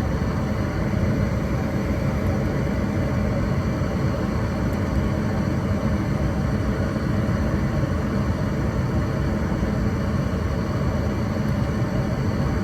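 Gas furnace firing: draft inducer fan and burners running with a steady, even rumble, while the blower motor stays off. The tech leans towards a bad control board as the cause of the dead blower.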